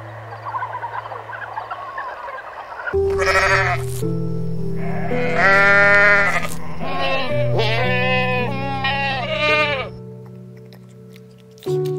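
Goats bleating, several wavering calls in a row in the middle stretch, over soft piano music.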